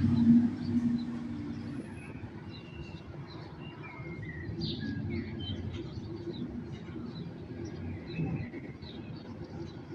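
A rumble of thunder dies away over the first two seconds, then small birds chirp and tweet over a low, steady rumble of distant city traffic.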